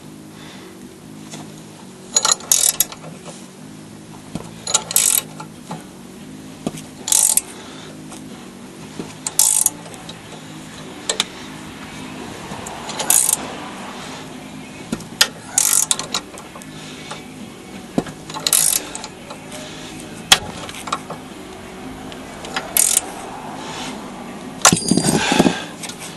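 Ratchet wrench tightening a bolt: short bursts of ratcheting clicks, one every two to three seconds, between resets of the handle.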